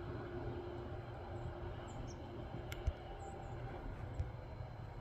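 Outdoor ambience during a snowfall: a steady low rumble, like distant traffic, with faint high chirps and two sharp clicks, one near the middle and one about four seconds in. A faint hum fades out over the first couple of seconds.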